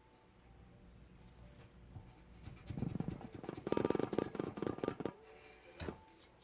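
Sandpaper on a hand sanding block being scrubbed back and forth in quick strokes over a hardened 80CrV2 steel knife blade, loudest from about two and a half to five seconds in, with a single click near the end.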